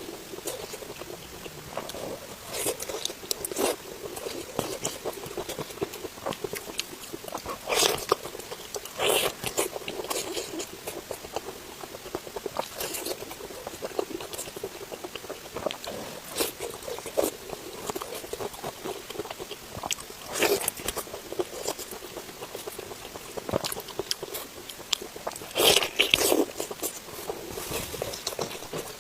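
Close-miked eating of spicy pork belly: irregular bites, chewing and crunches with wet mouth clicks, a few louder crunchy bites scattered through.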